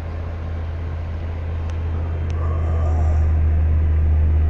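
Van engine running with a steady low drone, growing louder about a second and a half in. It is carrying the alternator load of an inverter that powers a 1500-watt electric space heater.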